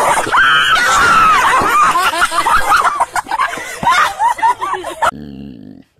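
A voice squealing and shrieking in quick high-pitched cries that rise and fall, cut off suddenly about five seconds in.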